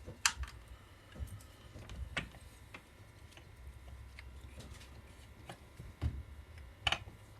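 Scattered small clicks and light knocks of parts and tools being handled on a chainsaw during ignition work, a sharp click just after the start, another about two seconds in, and a dull knock and a click near the end.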